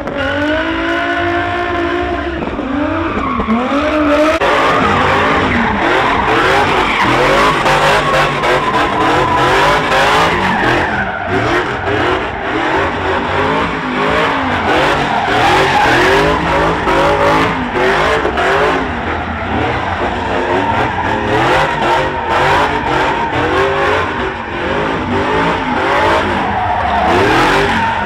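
A car doing a burnout: the engine revs hard, its pitch rising and falling again and again, while the rear tyres squeal continuously against the pavement.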